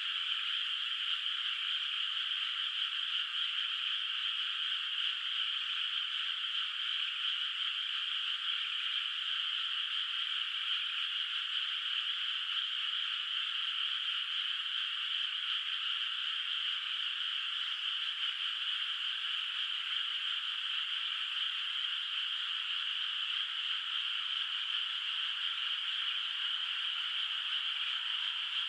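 A dense chorus of many frogs calling together from a flooded rice paddy, blending into one unbroken, even, high-pitched din with no pauses.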